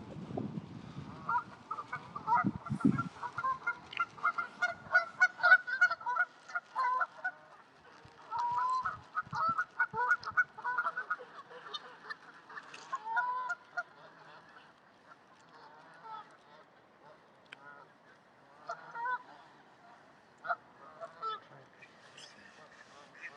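Geese honking, many calls overlapping for about the first ten seconds, then thinning out to scattered single honks.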